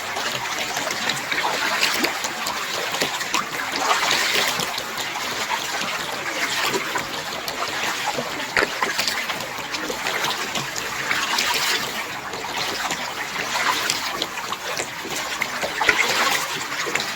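Water trickling and splashing from kayak paddle strokes on a calm creek, swelling every two seconds or so as the blades dip and drip.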